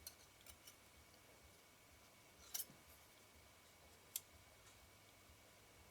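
Near silence broken by a few faint, sharp clicks of small metal lens parts and tools being handled: a double click about two and a half seconds in and a single one about four seconds in.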